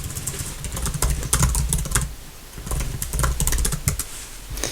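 Computer keyboard being typed on close to the microphone: quick runs of key clicks with soft low thuds, pausing briefly about two seconds in before the typing resumes.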